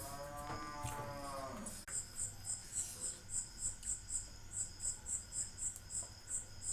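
An animal's long call, heard once for nearly two seconds and dropping in pitch at its end. It is followed by a high insect chirp repeating steadily about three times a second, over a low steady hum.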